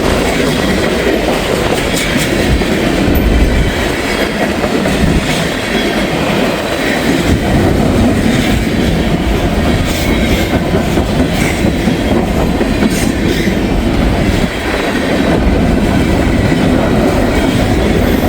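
Freight train cars rolling past close by: a loud, steady rumble of steel wheels on rail, with the clickety-clack of wheels crossing rail joints.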